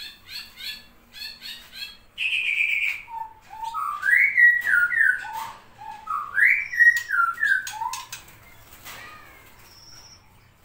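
Canary singing: a quick run of repeated chirps, a short buzzy note, then two loud phrases of whistled notes stepping up and down in pitch. A few sharp clicks follow near the end.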